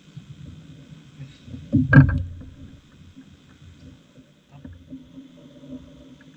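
A heavy thump about two seconds in, over a low rumble with a few small knocks.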